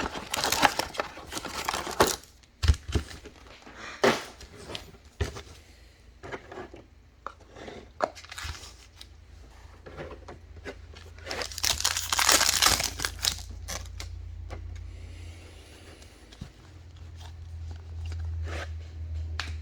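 Foil trading-card pack wrappers crinkling and being torn open, with cards clicking as they are handled; the longest, loudest rustle of tearing comes about twelve seconds in.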